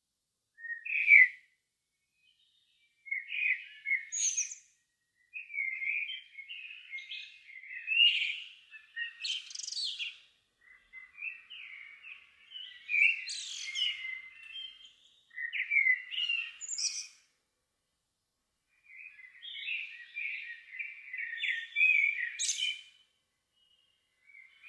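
A songbird singing a run of varied warbling phrases with short pauses between them. Several phrases end in a brief, very high squeaky note.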